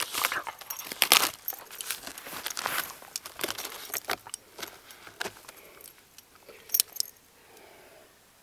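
A dog breaking up sticks: a rapid run of sharp cracks and crunches of wood that thins out about five seconds in, with a couple of last snaps near seven seconds.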